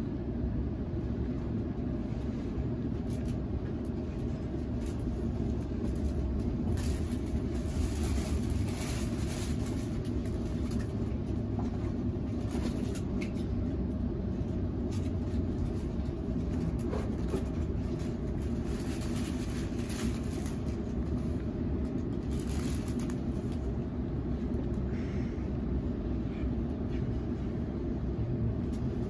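Sydney Trains Waratah A set electric train running between stations, heard from inside the carriage: a steady low rumble from the wheels and running gear, with a few brief swells of higher hiss.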